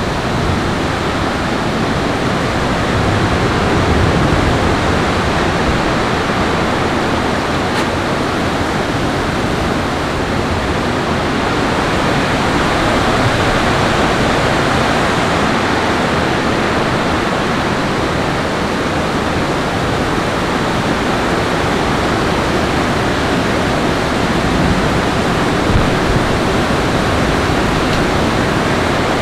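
Steady, loud rushing of water with no distinct strikes, swelling slightly a few times.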